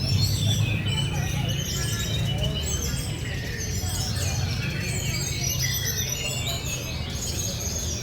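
Many caged contest songbirds singing at once, a dense tangle of overlapping quick chirps and trills, among them a brown-chested jungle flycatcher, over a steady low murmur.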